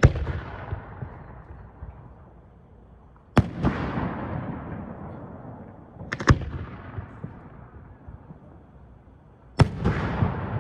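Fireworks bursting overhead: four loud bangs about three seconds apart, the third a quick double bang, each trailing off in a long fading echo.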